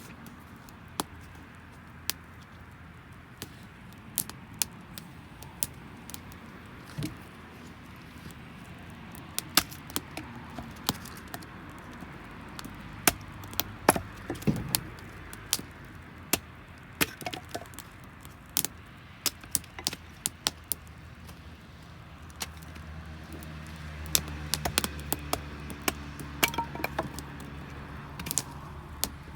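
Campfire of damp firewood crackling, with irregular sharp pops and snaps. A low steady hum comes in about three quarters of the way through.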